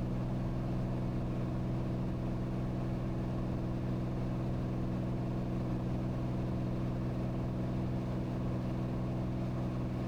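Cirrus SR22T's turbocharged Continental six-cylinder engine and propeller droning steadily at full climb power, heard inside the cabin.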